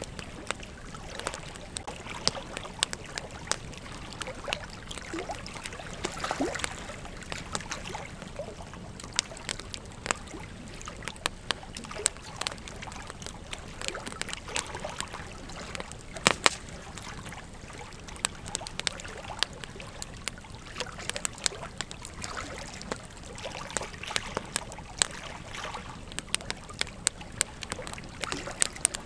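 Campfire crackling: frequent, irregular sharp pops and snaps over a steady hiss, with one louder pop about halfway through.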